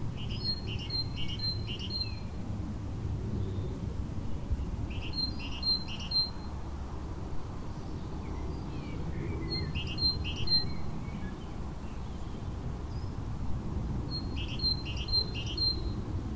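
A songbird singing a short phrase of four quick repeated notes, four times, about every five seconds, over a steady low background rumble.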